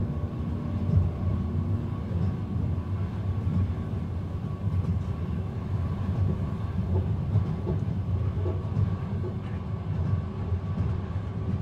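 Inside a train carriage: the steady low rumble of the train running along the rails, heard without music.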